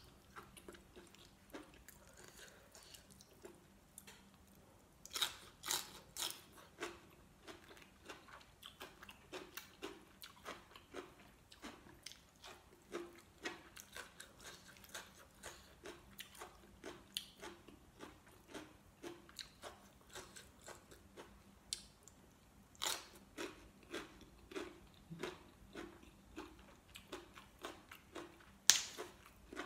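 A person biting and chewing crunchy raw green vegetables: a steady chewing rhythm of about two crunches a second, with a few louder, sharper bites around five seconds in, around twenty-three seconds in and near the end.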